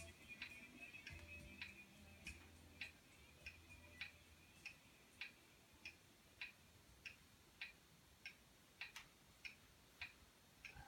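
Faint, evenly spaced clicking, a little under two clicks a second, from a small laminar-flow (thermoacoustic) Stirling engine running and turning its belt-driven generator. The tail of background music fades out in the first few seconds.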